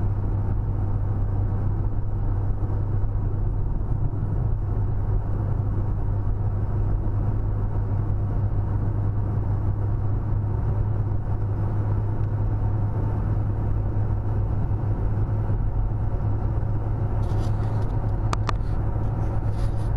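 A car on the move: a steady low rumble of engine and road noise, with a few brief clicks near the end.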